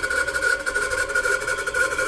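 A machine running steadily with a high, even whine over a rough, rapid buzz, which the owner suspects is a bad bearing.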